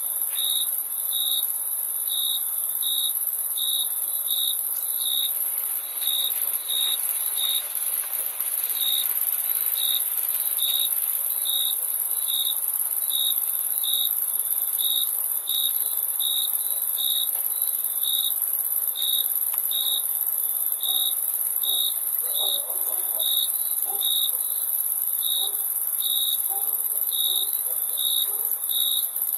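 Crickets chirping: a steady high-pitched trill, with a lower chirp repeating regularly, about three chirps every two seconds.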